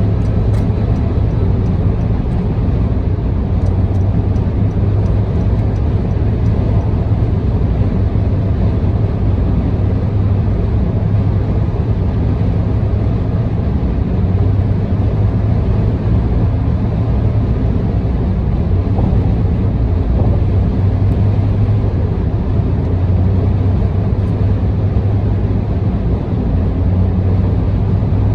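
Steady low rumble of a car travelling at expressway speed, tyre and engine noise heard from inside the car.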